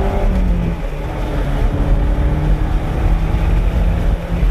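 Toyota MR2's mid-mounted four-cylinder engine, heard from inside the cabin. Its note drops with an upshift about a second in, then the engine runs steadily at the lower pitch.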